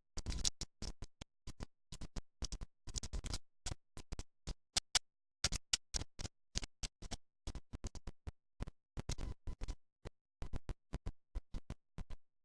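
Choppy, broken-up audio: short bursts of faint handling and rustling noise cut off again and again by moments of dead silence, a few times a second. The recording is dropping out, a fault in the sound capture.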